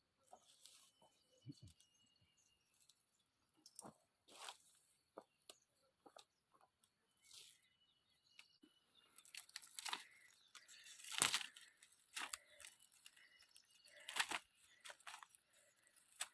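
Dry branches and leaves crackling and tearing as brush is handled, in scattered sharp snaps that come thicker and louder in the second half.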